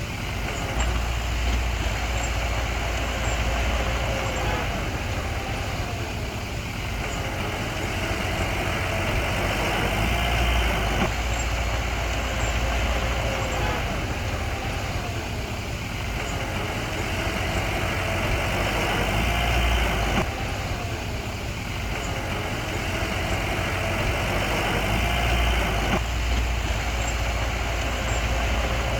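Bulldozer's diesel engine working under load, its pitch rising and falling over and over as it revs up and eases off every few seconds.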